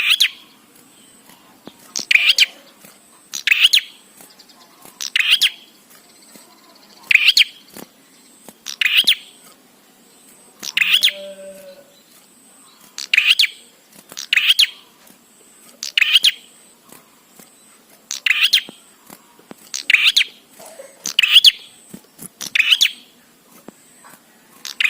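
Prinia calling vigorously: a run of short, sharp, high calls repeated about every one and a half to two seconds.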